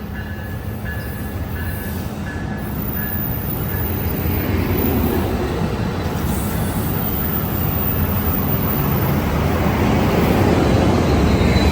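Amtrak Capital Corridor passenger train departing a station, with a Siemens SC44 Charger diesel locomotive pushing at the rear. The engine and the wheels on the rails make a steady rumble that grows louder as the train goes by, and a repeated high ringing tone stops after about four seconds.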